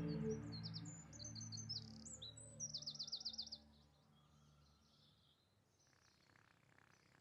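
Sustained background music chords fading away over the first few seconds, with birds chirping quickly and high over them until about three and a half seconds in; after that only a faint hush.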